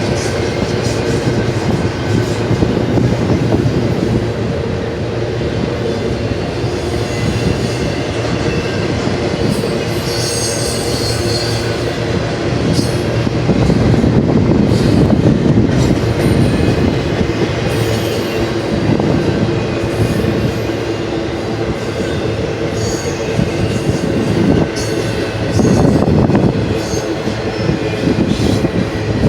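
BNSF intermodal freight train rolling past: a steady rumble of steel wheels on rail with wheel clatter and brief high squeals now and then.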